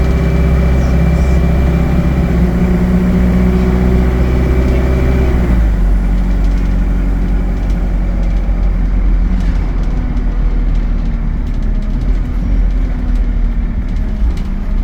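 ADL Enviro 200 bus engine running with its engine cooling fan on, a set of steady whining tones over the engine. About five and a half seconds in the fan cuts out abruptly, leaving the engine's lower running sound.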